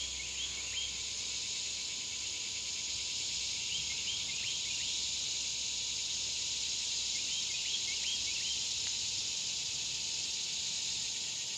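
Summer insects droning steadily and loudly, a high even buzz, with a few short high chirps in small clusters now and then.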